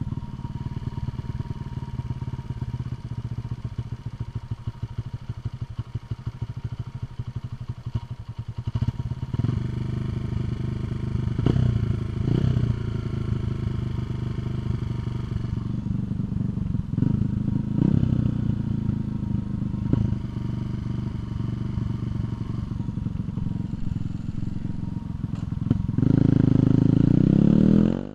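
Single-cylinder air-cooled supermoto engine idling with a fast chug, blipped several times through the middle, then held at higher revs for the last couple of seconds, while its newly fitted carburetor is tested.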